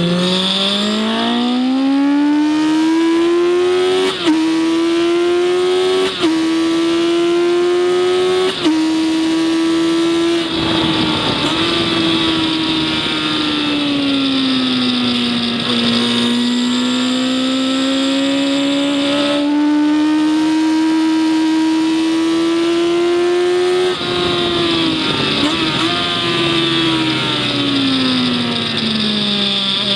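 A vehicle engine at full throttle around a race circuit. It climbs in pitch through three quick upshifts about four, six and eight and a half seconds in. It then backs off for a corner around ten seconds in and pulls steadily again, easing off once more about 24 seconds in.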